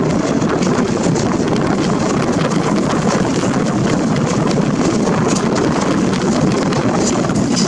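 Passenger train coaches running steadily along the track, heard from an open window, with wind rushing over the microphone.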